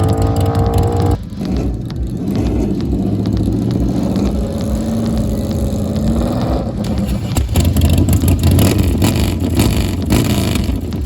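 Drag-racing motorcycle engine revving high, its pitch climbing, then cutting off sharply about a second in. A lower, rougher engine rumble follows and grows louder in the second half, with crackles.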